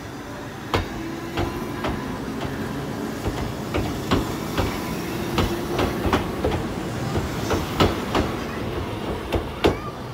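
Former Kintetsu 16000-series electric train rolling slowly past, its wheels clicking and knocking irregularly over the rail joints, about one or two clicks a second over a low running rumble.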